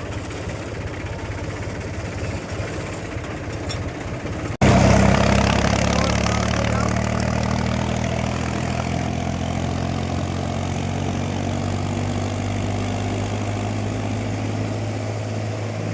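Tractor engine running steadily with a low throb. About four and a half seconds in the sound cuts abruptly to the engine idling louder and closer, a steady low hum.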